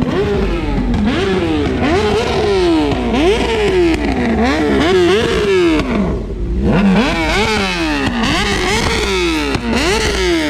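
A car engine revved over and over, about a dozen throttle blips, each rising quickly in pitch and falling away, with a brief lull just past the middle.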